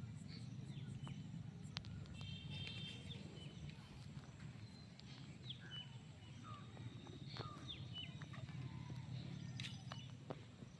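Birds chirping with short, high calls and quick downward sweeps scattered throughout, over a steady low rumble, with a few sharp clicks.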